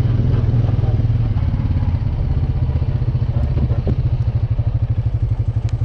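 Off-road vehicle's engine running, then easing off about halfway through to a slow, even idle beat.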